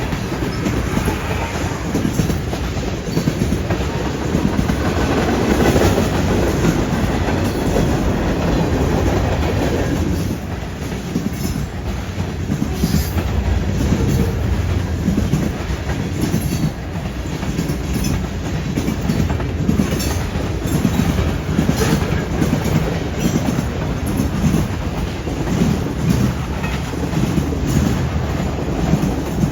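CN freight train rolling past, a steady rumble with the wheels clacking over rail joints and a junction switch.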